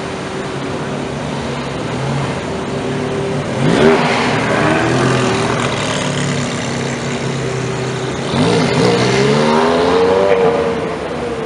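Ferrari sports car engines idling, then pulling away. The engine note climbs about four seconds in, and again, louder, from about eight and a half seconds as a car accelerates past close by.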